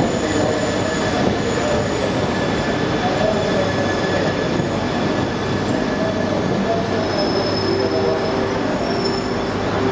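Shinkansen train rolling slowly along the platform: a steady rumble with a low hum, overlaid by faint wavering squeals from the wheels.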